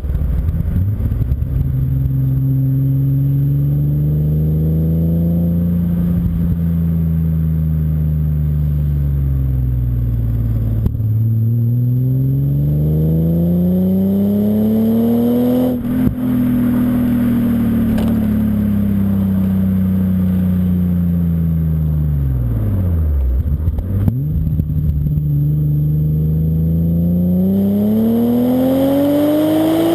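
BMW M5 E34's S38B38 inline-six running through a Scorpion exhaust, under way. The exhaust note climbs slowly for several seconds at a time and then falls, with a few abrupt drops in pitch, as under acceleration and gear changes.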